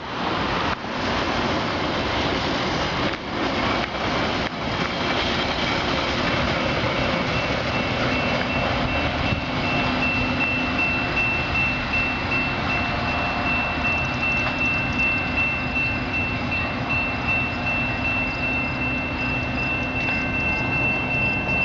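Metra bilevel commuter train rolling past close by with a steady rumble. From about halfway through, a thin high-pitched squeal holds steady as the train brakes to a stop at the station.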